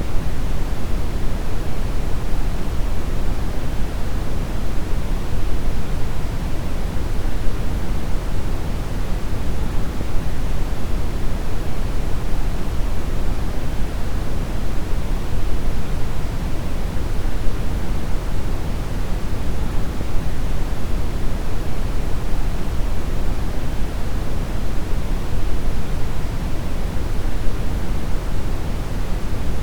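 Steady synthetic brown noise: an even, deep rumbling hiss weighted toward the low end, unchanging throughout.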